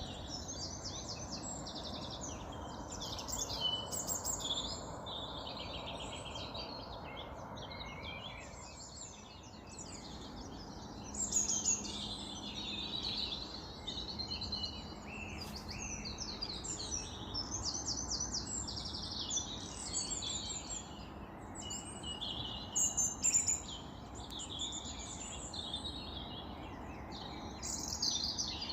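Many small songbirds singing and chirping at once in a dense, continuous morning chorus, over a steady low background hum.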